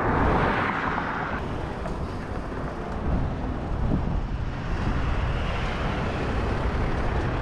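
Road and traffic noise heard while riding a bicycle: a steady low rumble, with a louder rushing swell in the first second and a half.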